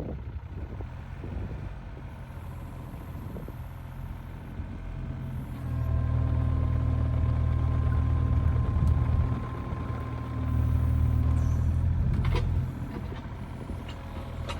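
Mini excavator's diesel engine running at low throttle, then revving up about six seconds in with a steady whine as it works, easing off briefly and revving again before dropping back. A sharp crack near the end.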